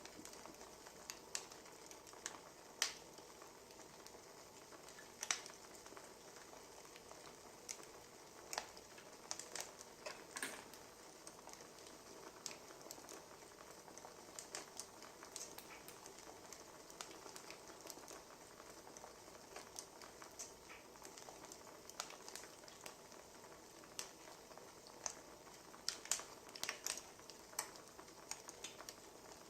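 Quiet wood fire crackling: irregular sharp pops and snaps over a soft steady hiss, coming more thickly near the end.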